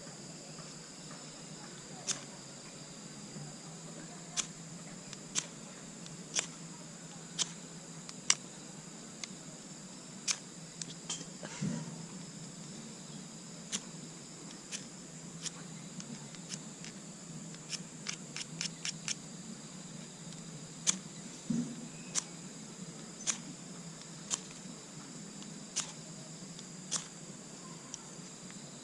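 Wood fire crackling: sharp, irregular pops and snaps, with a quick run of them a little past the middle. A steady high insect chirring runs underneath.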